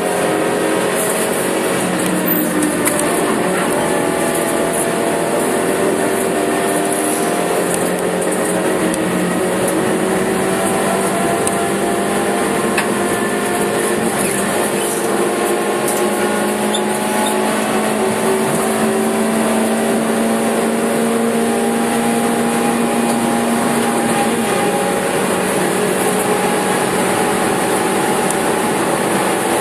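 Suzuki Swift Sport's four-cylinder engine pulling hard at speed, heard loudly inside the stripped, roll-caged cabin; its note climbs slowly as the revs rise, under constant road and wind noise.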